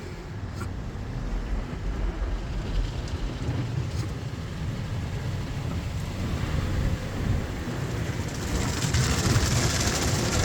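Ryko SoftGloss Maxx 5 automatic car wash running: a steady low rumble, with a hiss of water spray on the car that swells about eight seconds in.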